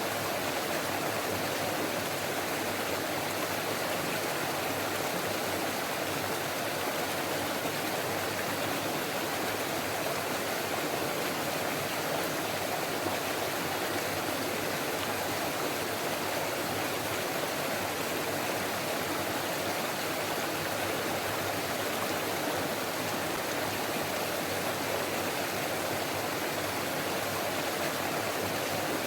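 Forest stream flowing and babbling over rocks, a steady even rush of water.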